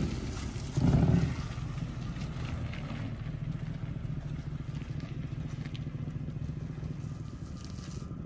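First-generation Lexus LS 400's 1UZ V8 revs up briefly about a second in, then runs with a steady low rumble as the car pulls away slowly. The exhaust leaks from being scraped on the ground.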